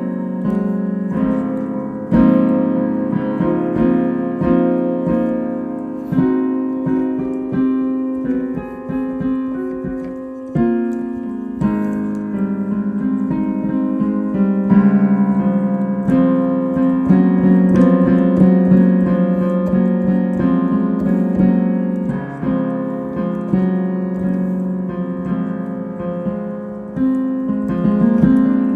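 Solo piano improvisation: chords and melody notes played with sustain, new notes struck every second or so.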